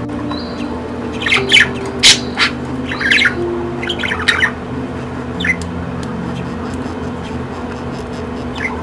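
A bird squawking repeatedly in short, harsh calls, several in quick succession between about one and four and a half seconds in, over background music.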